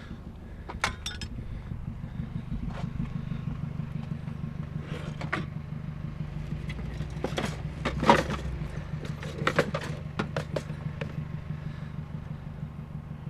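Objects in a trash pile being handled and rummaged through, giving scattered clicks and clacks, heaviest around the middle. Underneath runs a steady low hum of an engine running.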